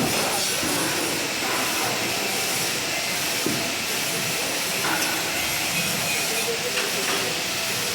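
MIG welding arc: a steady, even hiss with faint crackles, sustained throughout.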